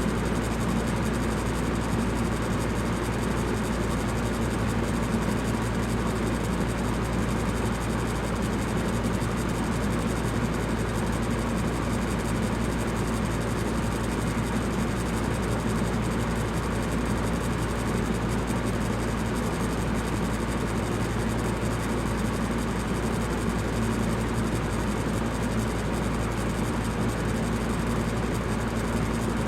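Electric fan running steadily: a constant whooshing air noise with a low hum underneath, unchanging throughout.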